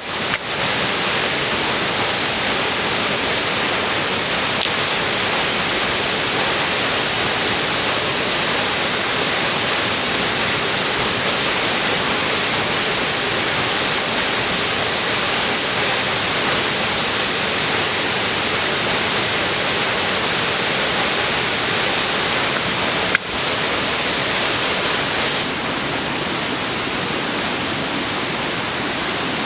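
Waterfall rushing: a loud, steady hiss of falling water, with one sharp click about three-quarters of the way through and a slightly lower level over the last few seconds.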